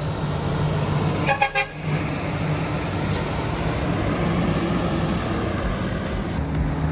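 Heavy truck engine running steadily, with a horn giving two short toots about a second and a half in.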